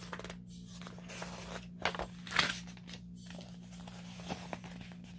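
Paper rustling as a picture-book page is turned: a few short papery rustles, the loudest about two seconds in, over a low steady hum.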